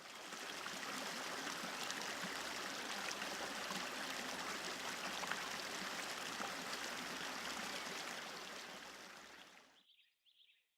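A stream running with a steady rush of water, which fades out near the end; a bird chirps faintly at the very end.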